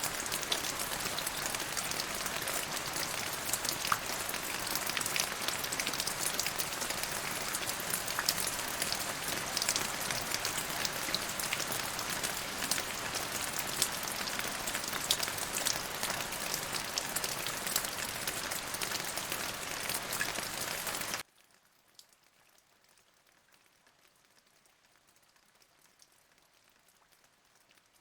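Steady rain pattering, with many separate drops ticking through it. About three-quarters of the way through it cuts off suddenly, leaving near silence.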